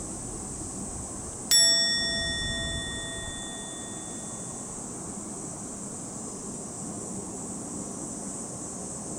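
A single bell-like ding, struck once about one and a half seconds in and ringing out as it fades over two to three seconds, over a steady background hum and hiss.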